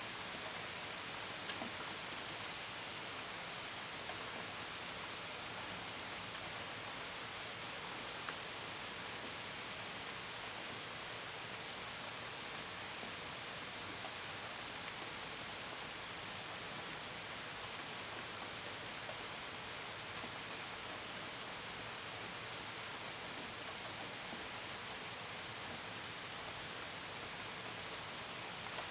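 Steady gentle rain with the pitter-patter of drops on a window and gutters, and crickets chirping faintly in a high, evenly repeating pattern behind it.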